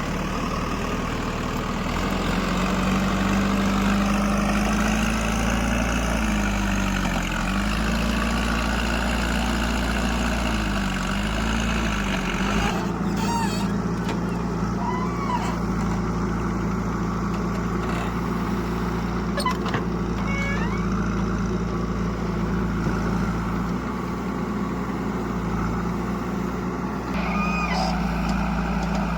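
Heavy diesel engine of a tractor or backhoe running steadily, its pitch sagging briefly twice in the first half. A few short high squeaks sound over it later on.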